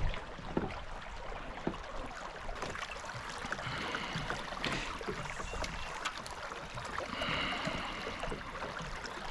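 Creek water running around a kayak, with scattered small knocks from the boat and gear. A faint high tone comes twice, about four and seven seconds in.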